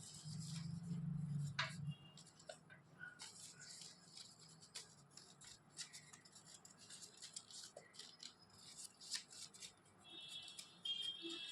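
Paper rustling and crinkling in short, faint crackles as origami paper is handled and folded.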